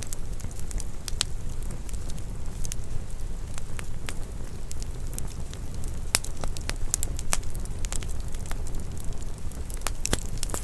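Wood fire burning in a fireplace: a steady low rumble of flames with irregular sharp crackles and pops, thicker clusters of them a little past the middle and near the end.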